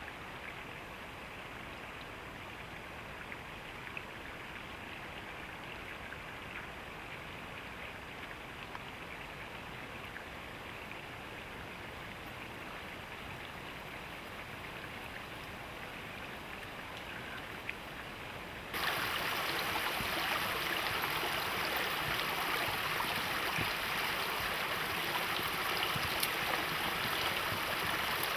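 Mountain stream rushing over rocks in a steady wash of water noise. About two-thirds of the way through it cuts to a louder, brighter rush of water.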